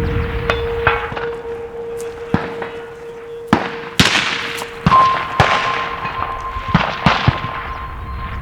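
Rifle shots and bullets striking steel targets: a string of sharp cracks and impacts, with struck steel plates ringing on as long steady tones, a lower one throughout and a higher one joining about five seconds in.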